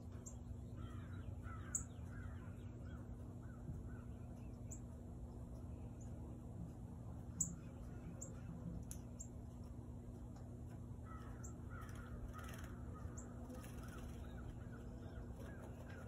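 Birds calling: twice, a quick run of about half a dozen descending notes, with short, sharp high chips scattered between them. A faint steady low hum lies underneath.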